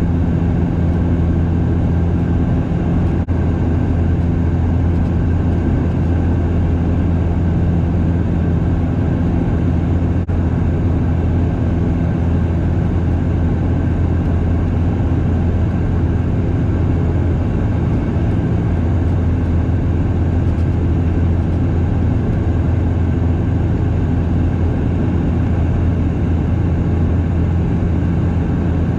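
Steady cabin drone of a Bombardier DHC8-Q400's turboprop engines and propellers: a constant low propeller hum with evenly spaced overtones above it, over a haze of airflow noise.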